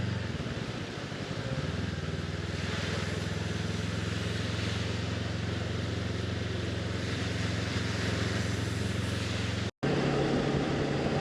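Honda CB500X parallel-twin engine running at a steady cruise, with wind and road noise. The sound drops out for an instant near the end and comes straight back.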